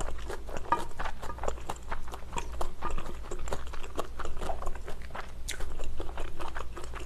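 Close-miked chewing of pad thai (stir-fried rice noodles), a dense run of small wet clicks, together with a spoon scraping and scooping noodles off a plate.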